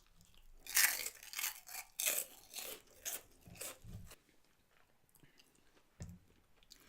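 Close-miked chewing and crunching of food, loudest in a run of quick crunches between about one and three seconds in, then softer chewing.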